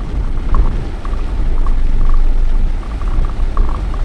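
Vehicle on the move: a steady, loud low rumble of engine and road noise with faint light ticking over it.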